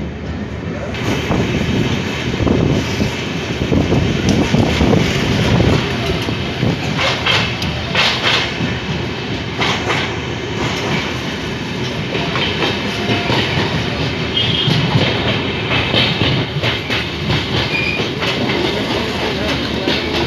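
Indian Railways passenger train running at speed, heard from inside a coach at an open window: a steady rumble of wheels on rails, with clickety-clack clicks as the wheels cross rail joints.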